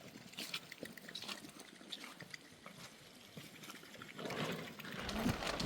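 Water trickling, with scattered small drips and ticks; it grows louder near the end.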